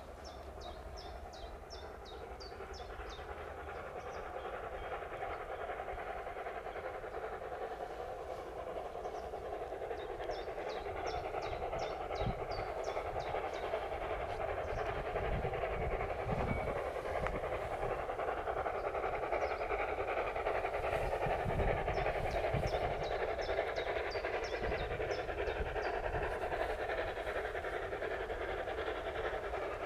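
A narrow-gauge train approaches from a distance, its running noise growing steadily louder. A songbird sings a rapid run of high notes three times.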